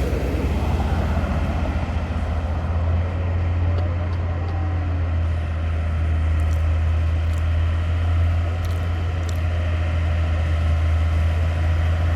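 A heavy truck's diesel engine running with a steady low drone as the driver tries again to climb the muddy slope.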